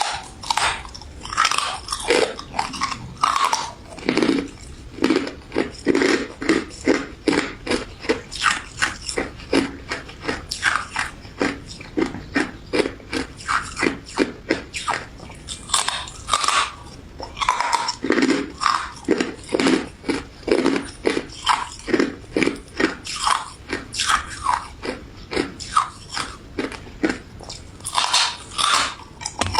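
Close-miked biting and chewing of a crunchy crystal ice dessert: a steady run of crisp crunches, about two a second.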